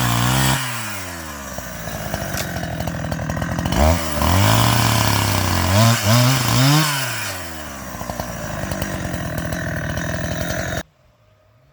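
Chainsaw engine revving up and down several times, then running at a lower, steadier speed before stopping abruptly near the end.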